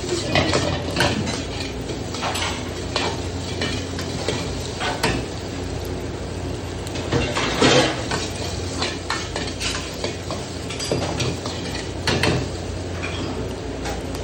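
Metal spatula scraping and clinking against a cooking pan as rice is stir-fried: irregular knocks and scrapes over a steady low hum.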